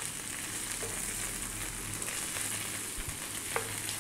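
Chopped spinach, onion and garlic sizzling steadily in olive oil in a nonstick skillet, with a wooden spoon stirring and lightly scraping the pan now and then.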